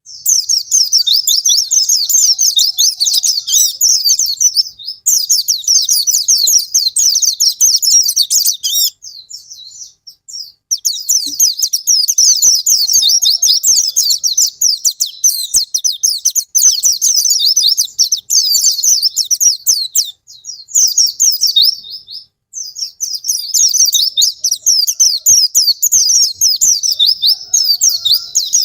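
White-eye (pleci) singing long runs of rapid, high twittering, each several seconds long, with short pauses between them. It is a lure song used to prompt captive white-eyes that are lazy or have stopped singing.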